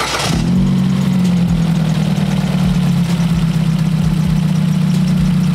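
Ford Figo's engine just started, the start-up flare dying away within the first half second into a steady idle. It is run to bleed air from the freshly refilled cooling system.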